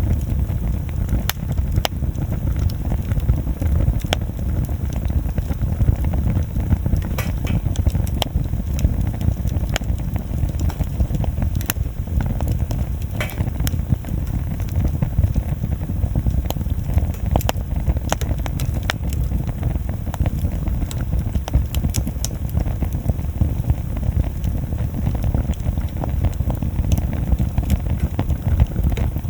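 Wood bonfire burning, with scattered sharp crackles and pops of the wood over a steady low rumble.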